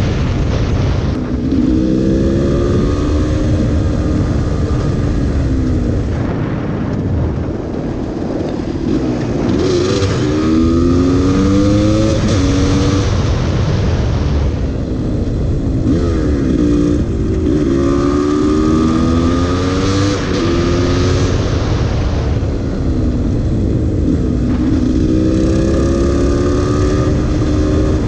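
GasGas EC300 two-stroke supermoto engine accelerating hard in four runs, its pitch climbing and stepping down at each upshift, easing off between runs. Heavy wind rush on the microphone underneath.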